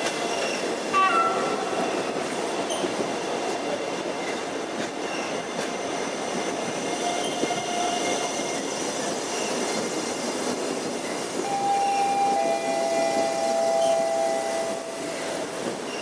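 Electric passenger train moving along the platform with steady rolling noise. Several high held tones ride over it, and a louder pair of tones is held for a few seconds near the end.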